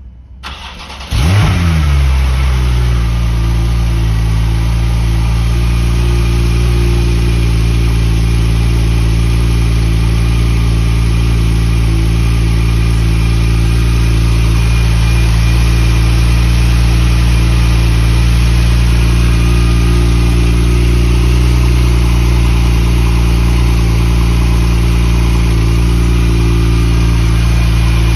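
2018 Porsche 911 Turbo S (991.2) twin-turbo flat-six on a cold start. It catches about a second in and flares up in revs. It then settles within a couple of seconds into a steady, fast cold idle.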